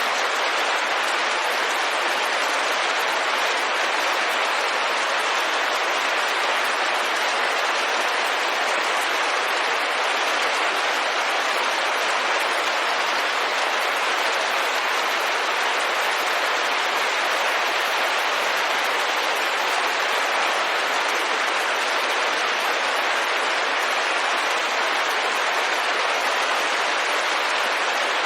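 Steady, even rain hiss, rain falling on a window, with no distinct drops or breaks.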